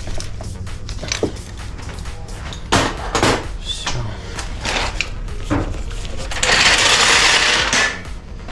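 Hand-tool work on a car's engine bay: scattered metallic clicks and clinks of tools and parts, with a harsh rushing noise lasting about a second near the end.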